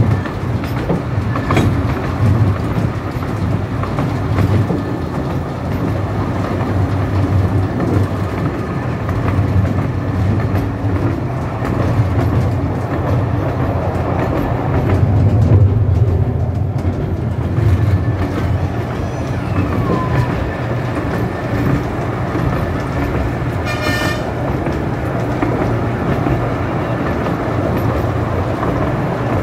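15-inch-gauge miniature railway train running along the track, heard from aboard a moving carriage: a steady low rumble with wheels clicking over rail joints. One short high-pitched sound cuts through about three-quarters of the way in.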